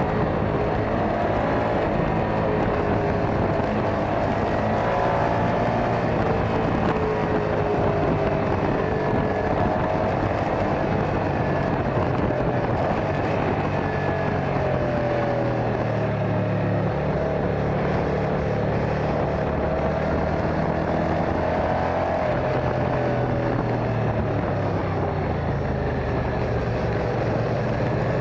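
Motorcycle engine running on the move, its pitch rising and falling as the revs change, over a steady rush of road and wind noise.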